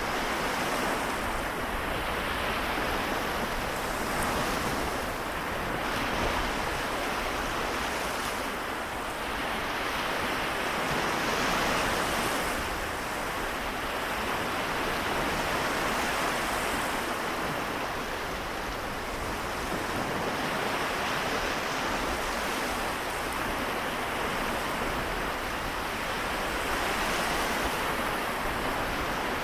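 Small waves of the Seto Inland Sea washing ashore, a steady rush that swells and eases gently every few seconds.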